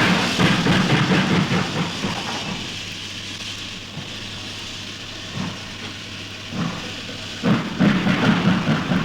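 Low rumbling sound effect from an old recording, loudest in two stretches: one at the start lasting about two seconds, and one in the last second and a half. A steady hiss runs under it, with softer swells in between.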